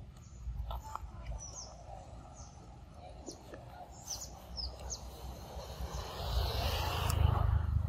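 Birds chirping: scattered short, high chirps, most of them in the first half. Under them a low rumbling noise swells near the end and is the loudest sound.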